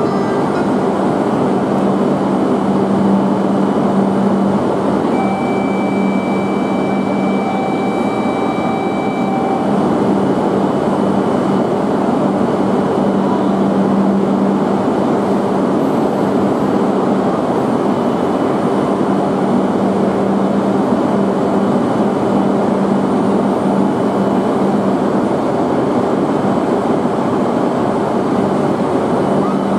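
Steady hum and rumble of a Shinkansen train at a station platform, level throughout with no approach or pass-by swell. A steady electronic tone sounds from about five to ten seconds in.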